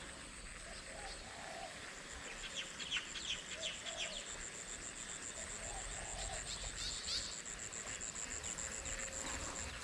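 Outdoor insect and bird sounds: a high, fast-pulsing insect trill starts about two seconds in and runs on almost to the end, with scattered short bird chirps over it.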